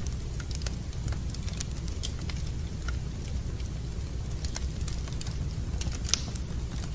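Wood fire in a fireplace crackling: irregular sharp pops and snaps over a steady low rumble, with one louder pop about six seconds in.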